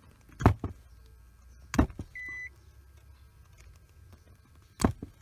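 Wire stripper snapping as it cuts and pulls the insulation off a wire, four sharp snaps spread over the few seconds. A short electronic beep sounds between them.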